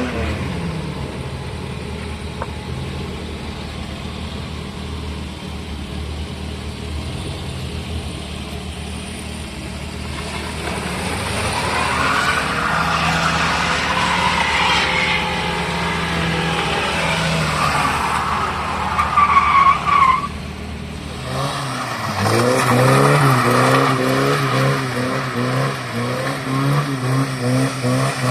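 Car engine running, then revving up and down repeatedly in the later part.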